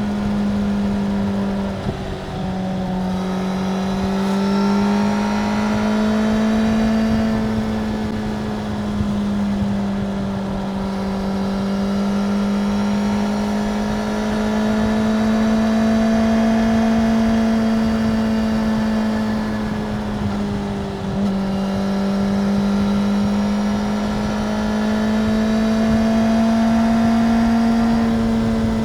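Suzuki GSX-R750's inline-four engine running at a steady, fairly high engine speed, its pitch rising and falling gently, with two short dips in pitch, about two seconds in and again about twenty-one seconds in.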